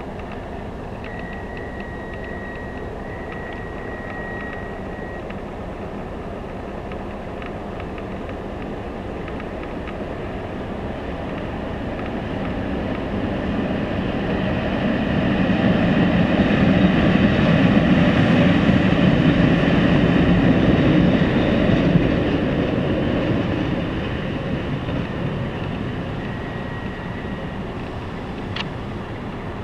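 Electric trains running past on the line: the rumble and wheel noise of a pair of coupled electric locomotives swell to their loudest from about 16 to 22 seconds in, then fade. A thin steady whine comes and goes early on, and a single sharp click sounds near the end.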